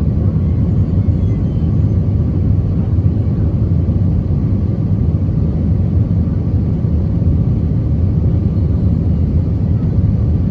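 Steady cabin noise inside an Airbus A320 with its engines running: a loud, even rumble heard from the passenger seat.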